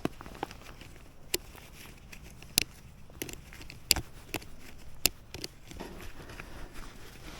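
Snowshoe footsteps in snow: a sharp crunch or clack with each step, about one every second and a quarter, with smaller ticks between.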